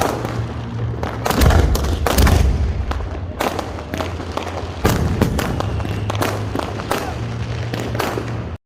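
Many fireworks and firecrackers going off, sharp bangs in quick irregular succession over a low rumble, cut off suddenly near the end.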